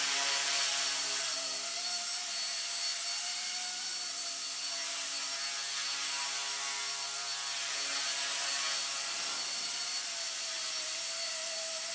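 Blade mCP X BL2 micro RC helicopter in flight: its brushless motors and spinning rotor blades give a steady whine, the pitch wavering slightly as the rotor speed shifts.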